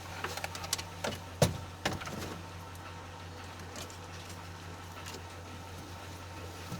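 A handful of sharp clicks and knocks in the first two seconds, the loudest about one and a half seconds in, from handling tools and parts, over a steady low hum.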